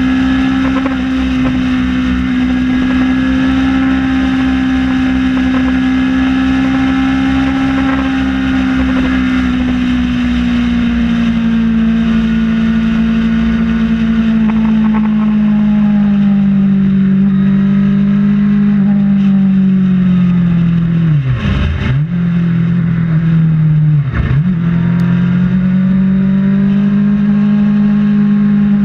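Kawasaki ZX-6R inline-four engine running at steady highway cruise, with wind rushing over the bike. The engine note eases slowly lower through the middle, and twice near the end it dips sharply and comes straight back.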